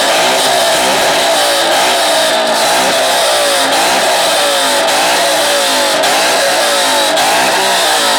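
Ford Mustang V8 revved hard again and again in a rev battle, its pitch rising and falling over and over.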